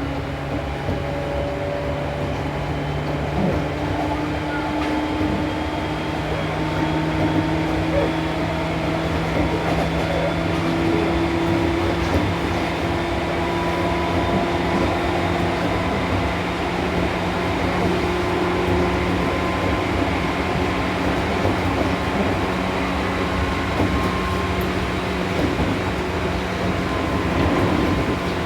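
Seibu New 2000 series electric train running between stations, heard from inside the car: the rumble of wheels on the track under a steady motor and gear whine. The whine climbs slowly in pitch over the first half as the train gathers speed, then holds steady.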